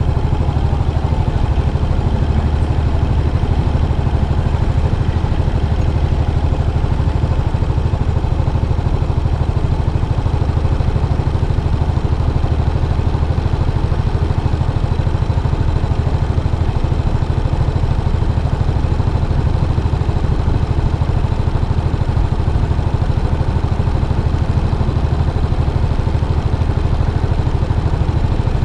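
Yamaha SR400's air-cooled single-cylinder engine running steadily through its stock muffler, a deep even exhaust pulse with no change in revs.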